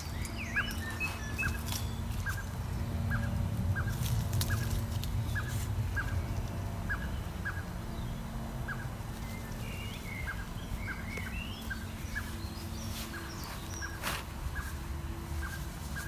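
Birds calling: a short, clipped note repeated roughly twice a second, with a few brief warbled song phrases in the background, over a low steady rumble.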